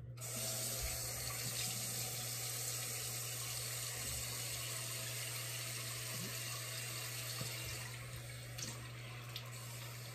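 Bathroom faucet running steadily into a sink, the water turned on suddenly and easing a little near the end, as the face is rinsed of mask and cleanser.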